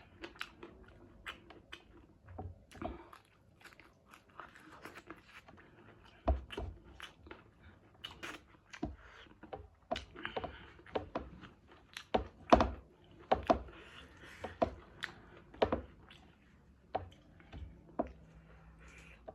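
Close-up eating sounds: chewing and biting with irregular crunches and wet mouth clicks, getting louder and busier in the second half.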